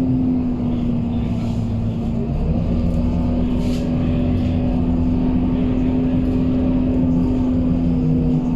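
Scania K230UB bus's five-cylinder diesel engine and drivetrain running steadily, a low drone with a steady whine over it.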